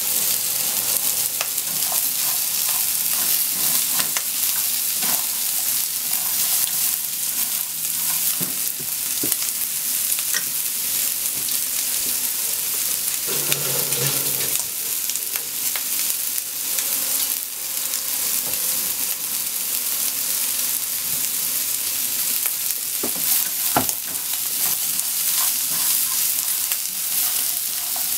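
Shrimp and sliced potato frying in oil in a nonstick pan: a steady sizzle with scattered pops and clicks. A wooden utensil stirs them near the end.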